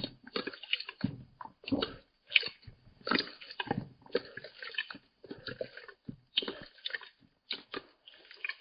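A cat lapping water, the sound slowed down: wet, clicky laps in short bursts, a little over one a second.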